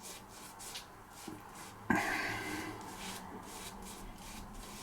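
Joseph Rodgers & Sons No1 straight razor scraping through about six days of stubble in short, crackly strokes, a few a second. There is a single sharp knock about two seconds in.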